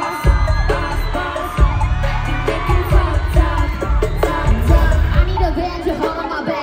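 Live K-pop music over a venue PA: singing over a heavy bass backing track, with a brief drop-out of the bass about a second in and again near the end.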